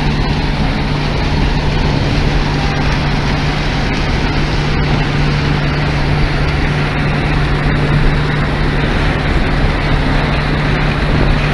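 DON-1500 combine harvester running steadily while threshing sunflower, a constant low machine hum with the rattle of the threshing and sieve mechanism.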